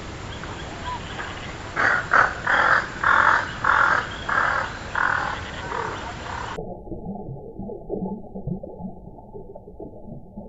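An animal gives a run of about seven loud calls, roughly two a second. It cuts to a muffled recording of a rough, rapid low chatter.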